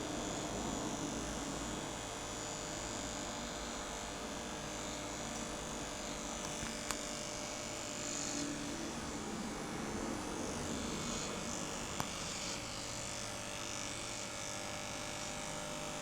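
Steady hum over a soft background hiss, broken by two brief sharp clicks, one about seven seconds in and another about five seconds later.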